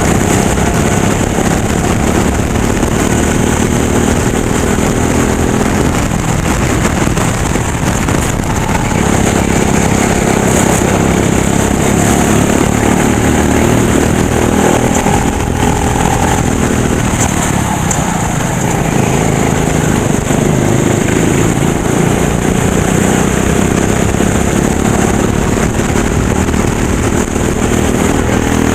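Racing kart engine running hard, its pitch climbing on the straights and falling away through the corners, over steady wind and road noise.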